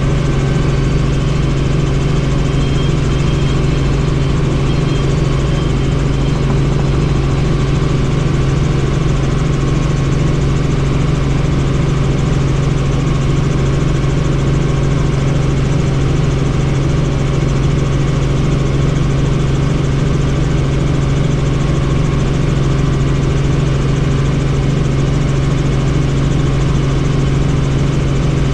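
Helicopter in steady flight: a loud, unchanging drone with a strong low hum from the rotor and engine.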